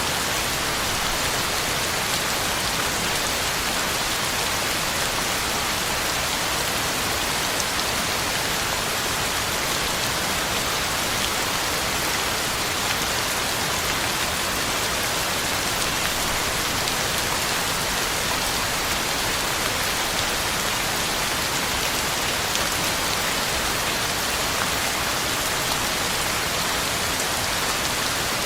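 Heavy rain falling steadily, with many fine drop ticks on the ground and on leaves.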